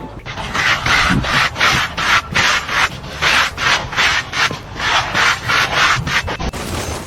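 Rapid back-and-forth rasping strokes, about three a second, like something being scraped or rubbed hard against a rough surface. They stop shortly before the end.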